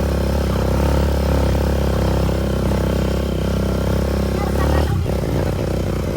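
Motorcycle engine running steadily while riding. About five seconds in, its deep low drone drops away and the note turns rougher and choppier.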